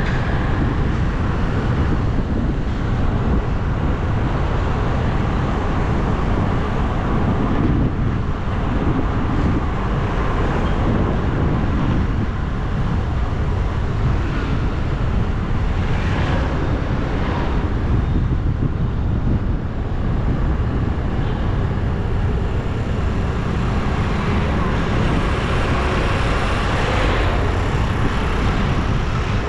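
Steady wind rush and road noise from riding a bike along a road, heaviest in the low range.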